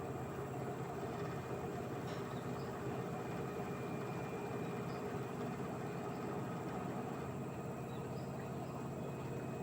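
LG 8 kg direct-drive washing machine running mid-cycle on a 60°C cotton programme: a steady, even hum with a few faint ticks.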